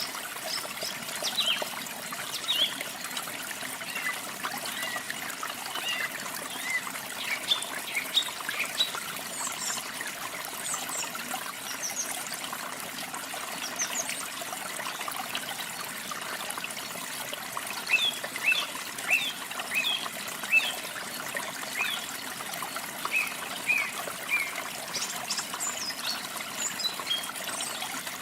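Steady running water of a small waterfall or stream, with songbirds chirping and twittering over it in short bursts throughout, thickest in the second half.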